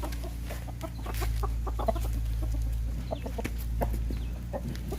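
Domestic chickens clucking in short, scattered calls.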